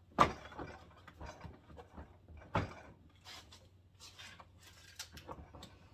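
Handling noise from Milwaukee Packout tool boxes being fitted together: a sharp knock just after the start and another about two and a half seconds in, with light clicks and rubbing between.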